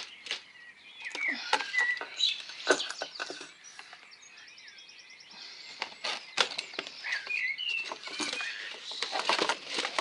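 Garden birds chirping, with a quick high trill about four and a half seconds in, amid frequent short clicks and flutters.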